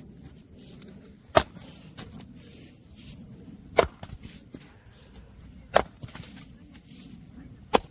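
Firewood being split by a log-splitting machine: four sharp cracks of splitting wood, about two seconds apart, over a low steady rumble.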